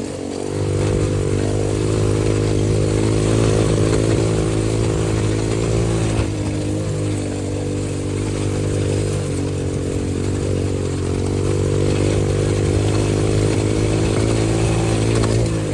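Single-cylinder four-stroke engine of a 125cc XPro dirt bike running under throttle while ridden. Its note rises about half a second in, eases off a little around six seconds and builds again near twelve seconds.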